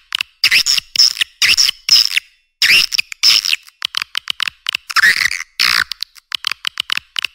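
Swiftlet calls of the kind played as a swiftlet-house lure: rapid trains of dry clicks alternating with longer, buzzy twittering chirps, repeating over and over. The sound is thin and high, with no low end.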